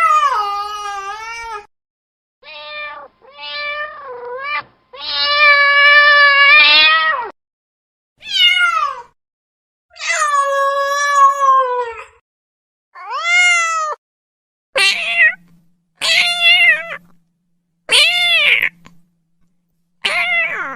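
Domestic cat meowing over and over: about eleven separate meows with short pauses between them, some brief and some drawn out to around two seconds, the longest about a quarter of the way in.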